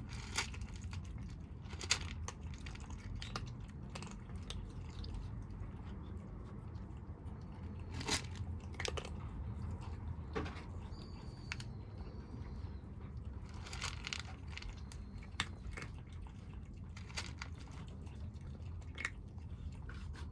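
Kittens eating, crunching and chewing their food, with irregular crunches scattered throughout over a steady low rumble.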